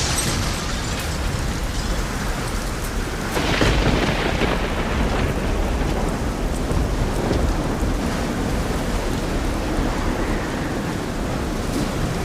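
Steady rain, a dense even hiss with a low rumble underneath, swelling briefly louder about three and a half seconds in.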